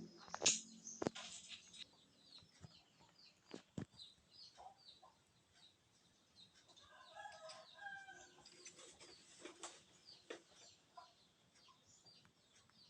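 Birds chirping repeatedly, with a few sharp knocks in the first few seconds and a short run of lower clucking calls about seven seconds in.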